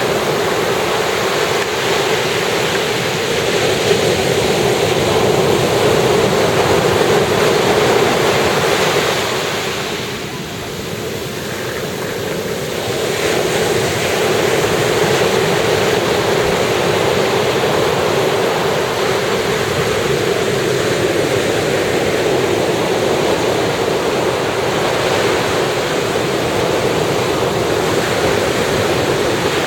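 Ocean surf breaking and washing up a beach, a steady rush of waves that eases for a few seconds about a third of the way in, then swells back as the next wave comes in.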